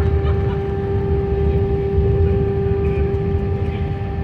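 Airbus airliner engines and airflow heard from inside the cabin during landing: a steady low rumble with a constant droning tone over it.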